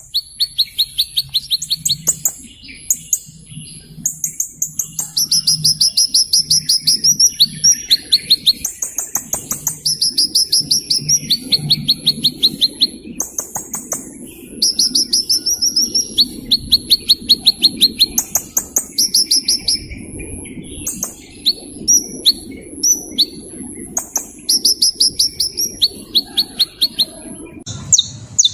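A small bird singing very high, rapid trills of ticking notes, each burst lasting about a second and repeated again and again with short gaps. A faint low hum runs underneath.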